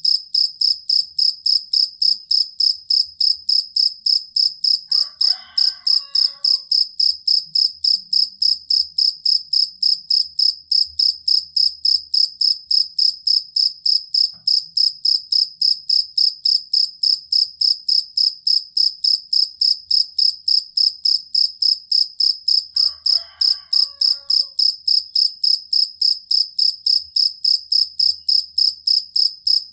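Field cricket (jangkrik kalung) calling: a loud, high-pitched chirp repeated evenly at about three chirps a second without a break, the steady, long song used as a master recording for songbirds.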